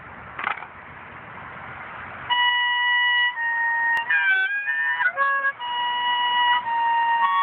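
Harmonica starts playing about two seconds in, after a stretch of steady background hiss: long held chords broken by quick changes of note.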